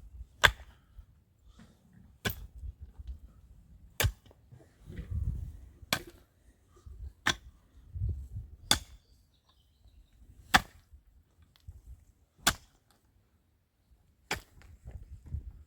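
Sharp, single blows of a hand tool in construction work, about nine of them at a steady pace of roughly one every two seconds, with faint handling noise between strikes.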